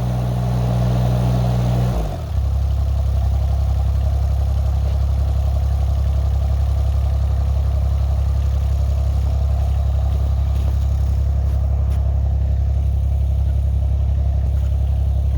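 Chinese 2-ton mini excavator's engine running while the machine travels, its note changing abruptly about two seconds in and then holding steady.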